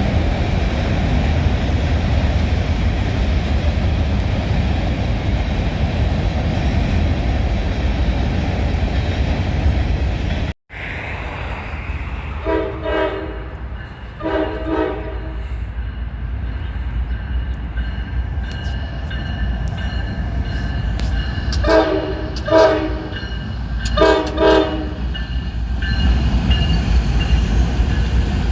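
Freight or passenger train rolling by with a steady low rumble that drops out briefly about a third of the way in. After that a locomotive's chime horn sounds in separate blasts: two, then a closer group of three, over the continuing rumble.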